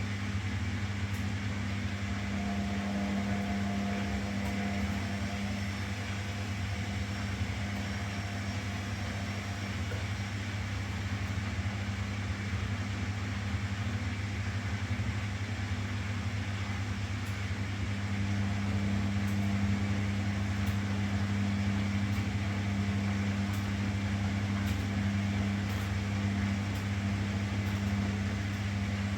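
Washing machine running with a steady low hum, with a few faint light ticks in the second half.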